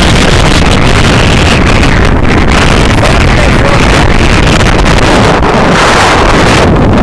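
Strong wind blowing straight onto the microphone: loud, continuous wind noise that swells with gusts about two seconds in and again near six seconds.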